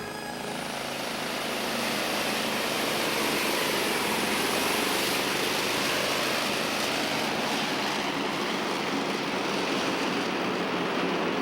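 Jet engine of a jet-powered vehicle running, building up over the first two seconds and then holding a steady, loud roar.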